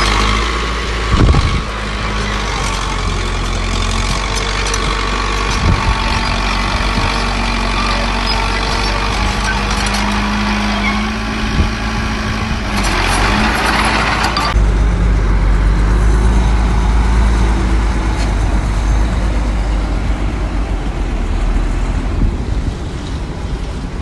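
Diesel engines of earthmoving machinery and dump trucks running steadily. About halfway through there is a hiss lasting a second or two, after which the low engine rumble grows stronger.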